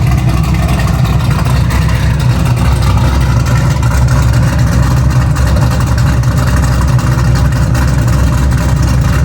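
Cammed 427 LSX V8 running through full 3-inch straight pipes, a loud, steady low rumble.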